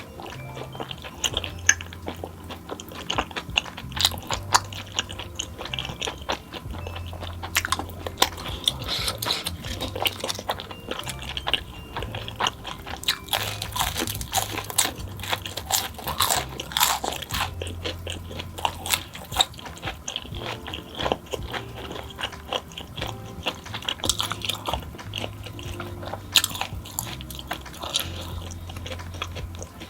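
Close-miked eating: biting and chewing crunchy food, with many sharp crisp crunches and wet mouth sounds.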